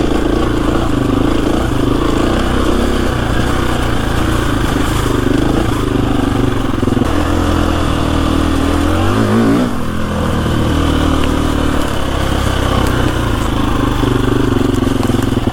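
KTM 350 EXC-F single-cylinder four-stroke dirt bike engine running at low revs while riding, with a short rise in revs about nine seconds in that drops off a moment later.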